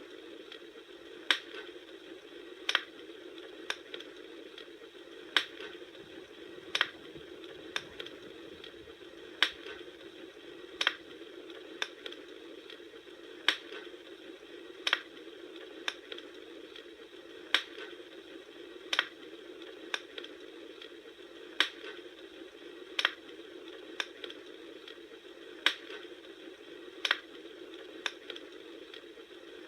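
Bonfire crackling: a steady soft hiss with a sharp pop about every second and a half, repeating at a very even rate, and fainter ticks between.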